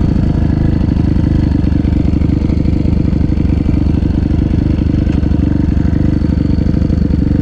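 Suzuki RM-Z250 dirt bike's 250cc four-stroke single-cylinder engine running at a steady, fairly even speed, loud and close.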